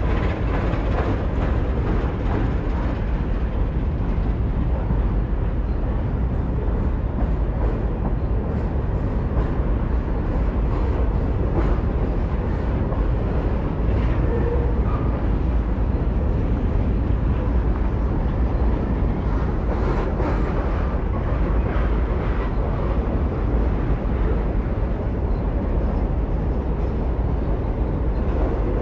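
Yamaha MT-07's 689cc inline-twin engine running steadily under way, heavy in the low end, with a constant rush of wind on the microphone.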